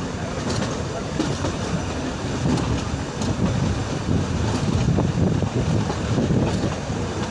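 A train running by: a steady rumble with scattered clicks from the wheels on the track.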